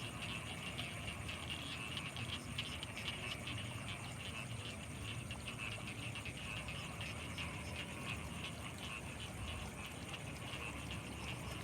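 Frogs calling in a dense, continuous chorus of rapid pulsing notes, over a constant thin high-pitched whine.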